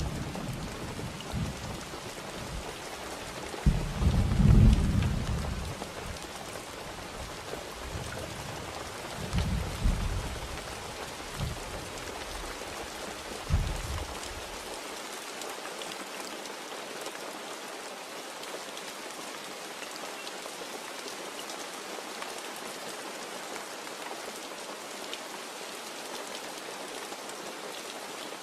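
Steady heavy rain with several low rolls of thunder in the first half; the loudest comes about four to five seconds in. From about halfway on, only the rain continues.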